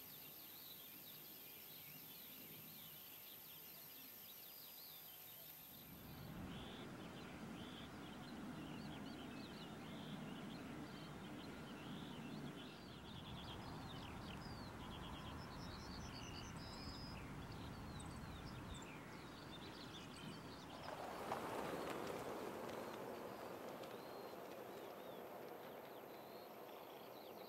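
Small songbirds chirping and trilling throughout over a steady outdoor background hiss. The hiss grows louder about six seconds in and swells briefly again near the end.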